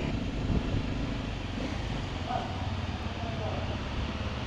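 Steady low engine rumble of a vehicle, with faint voices in the background.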